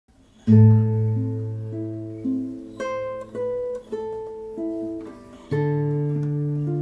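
Improvised solo music on a plucked string instrument: a low chord rings out about half a second in, single notes are picked over the sustained bass, and a new low chord is struck about five and a half seconds in.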